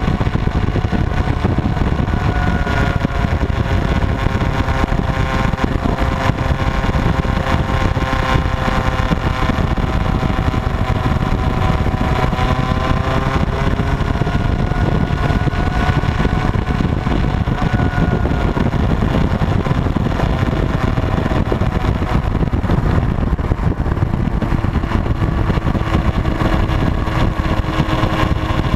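Motorcycle engine running continuously, its pitch slowly rising and falling with the throttle, over a steady low rumble.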